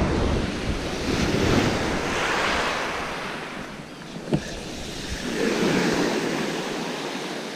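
Sea waves washing onto the shore, swelling and fading twice, with wind buffeting the microphone and one short click about four seconds in.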